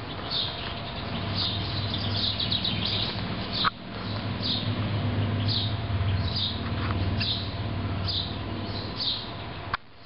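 A songbird calling repeatedly: short, high, downward chirps about once a second, sometimes several in quick succession, over a steady low hum.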